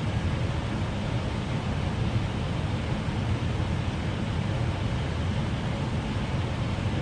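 Steady cockpit noise of an Airbus airliner on final approach: airflow and engine noise, a low rumble with a hiss above it.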